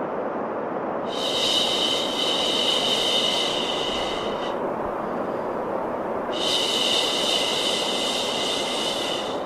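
Steady white noise for baby sleep, a rushing hiss with no rhythm. A brighter, higher hiss with a thin high whine is laid over it twice, for about three seconds each time.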